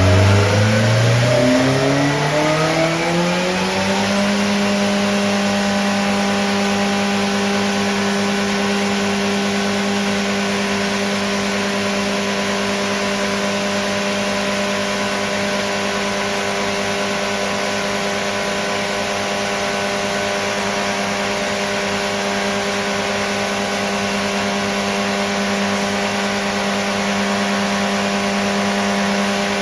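750 Formula race car's newly built engine running on a rolling road: the revs climb over the first four seconds, then hold steady at high revs for the rest.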